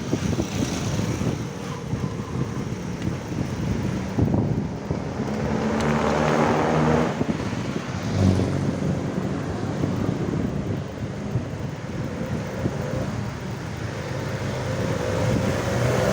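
Road traffic heard during a ride: a steady rush of wind on the microphone, with vehicle engines passing and one engine rising in pitch as it speeds up near the end.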